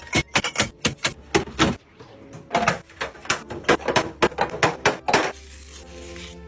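A quick, irregular series of sharp clacks and knocks, like hard items being handled and set down, in two bursts with a short pause between.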